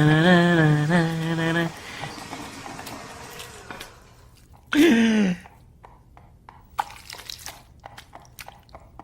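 A person singing, holding a wavering note for under two seconds, then a short falling vocal sound about five seconds in, followed by scattered light clicks and taps.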